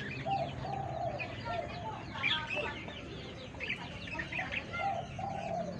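Budgerigars chirping and chattering, many short overlapping calls in quick succession.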